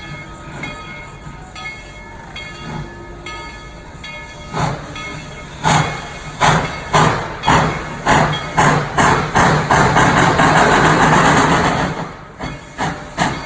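Steam locomotive on a narrow-gauge line pulling away. Loud exhaust chuffs start about six seconds in at about two a second, run into a long steady hiss of steam, then resume near the end.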